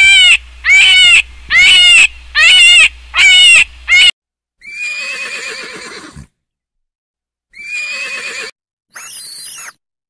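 Five loud, short animal calls in quick succession over the first four seconds, then horses whinnying: a long whinny with a shaky, falling pitch, and two shorter ones near the end.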